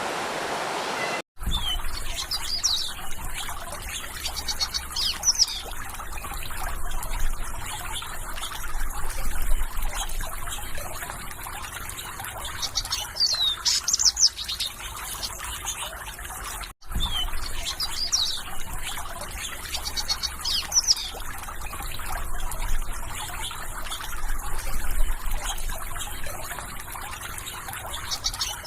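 Water trickling steadily, with small songbirds chirping in short, quick, high falling notes and brief trills. For about the first second a steadier rush of water is heard; it cuts out for an instant before the trickle and birdsong begin.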